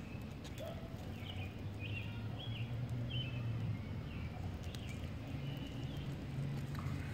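Small birds chirping in short calls over a steady low hum.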